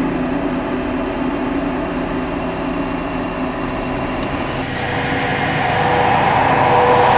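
Truck engine running steadily, growing louder about two-thirds of the way through.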